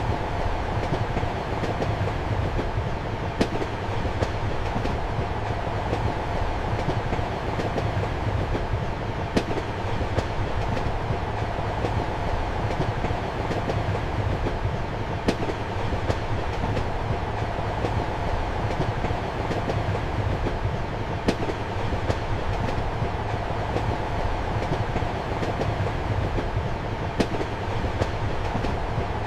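Passenger train running, heard from inside a compartment: a steady rumble and hum with faint sharp clicks about every six seconds.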